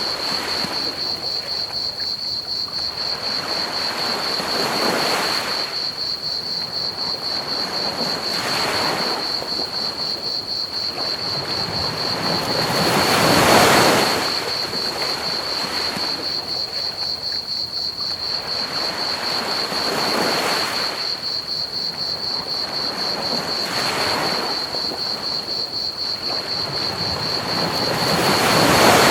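Ocean waves breaking and washing onto a beach in slow surges every few seconds, the biggest about halfway through and at the very end, over a steady high chirping of crickets and a constant bed of pink noise.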